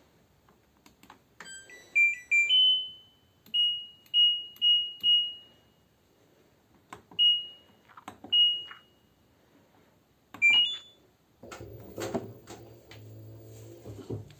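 LG F10B9LD washing machine control panel beeping: a short rising power-on jingle, then a string of single beeps as the programme and settings are selected, and a quick rising chime when start is pressed. A couple of seconds later clicks and a steady low hum begin as the machine starts its cycle.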